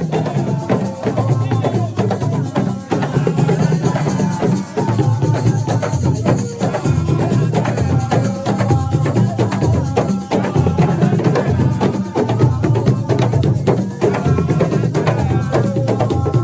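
Senegalese assiko music played live: hand drums and fast clattering percussion, with voices singing over them.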